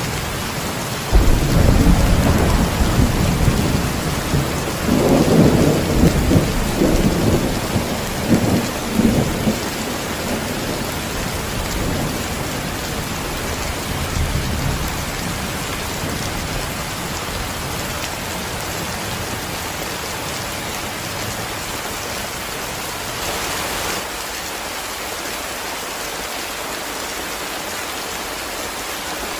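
Steady heavy rain, with a clap of thunder breaking in about a second in and rumbling on in rolling waves for roughly ten seconds before fading, leaving the rain alone.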